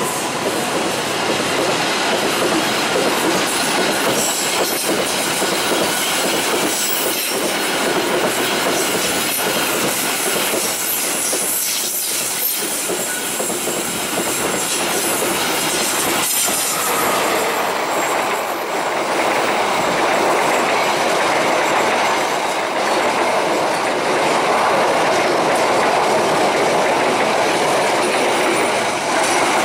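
Container freight train wagons rolling past at close range: steady loud rumble and clatter of steel wheels on the rails, with a faint high wheel squeal. About two-thirds of the way in the sound changes abruptly, and train noise carries on after the change.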